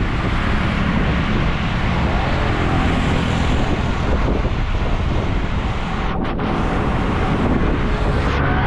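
Wind rushing steadily over the microphone of a moving bicycle, over the hum of street traffic engines.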